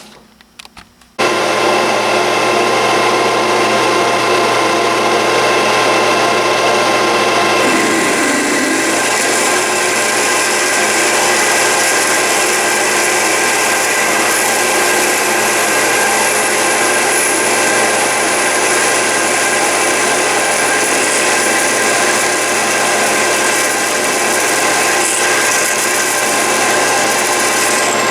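Metal lathe motor starting abruptly about a second in and running steadily with a whine of several steady tones. From about eight seconds a high hiss joins as the tool cuts the metal, ending just before the end.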